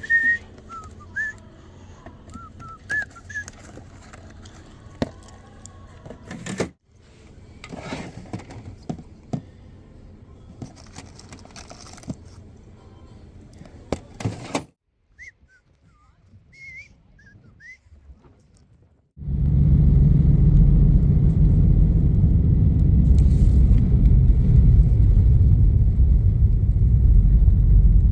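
Several short clips: quiet background with scattered sharp clicks and knocks and a few short high chirps, like small birds. About nineteen seconds in, a loud steady low rumble sets in and holds to the end.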